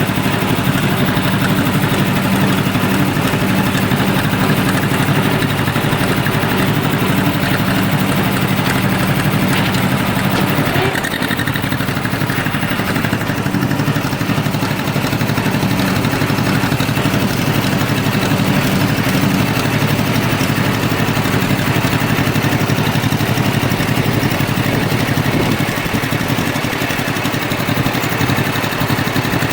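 Tractor engine running steadily under way, with a brief change in its note about eleven seconds in.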